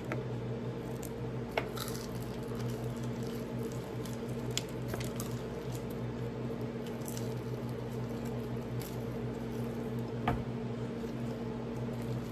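Close-up eating sounds: biting, chewing and tearing meat off a chicken wing, with scattered small wet clicks and smacks. Underneath is a steady low hum.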